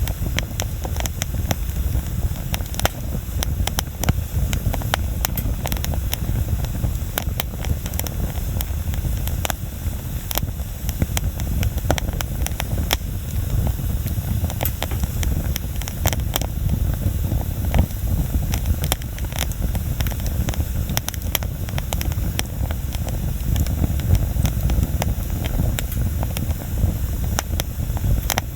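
Wood bonfire burning, with frequent sharp, irregular crackles and pops over a steady low rumble.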